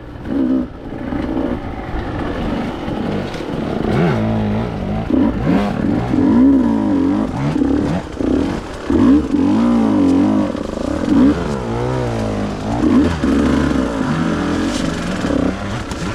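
KTM EXC 150 two-stroke enduro engine revving, its pitch rising and falling again and again with the throttle.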